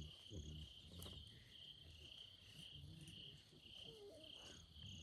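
Crickets chirping in a steady, even rhythm of about two chirps a second, faint against a quiet night background.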